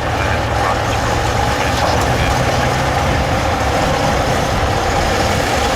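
Heavy off-road trial truck's engine running steadily at a low, even pitch.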